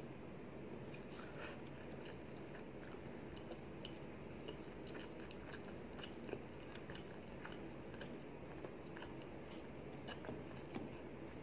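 A person chewing a mouthful of rice and tuna curry, faint, with many small wet clicks and smacks of the mouth over a steady low hiss.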